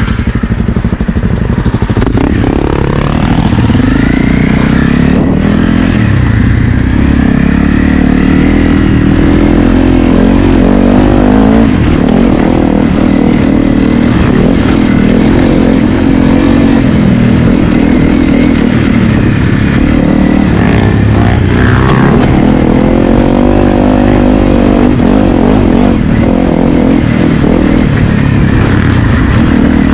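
Honda CRF250L's single-cylinder four-stroke engine under load while riding, revving up and easing off over and over as the throttle is worked.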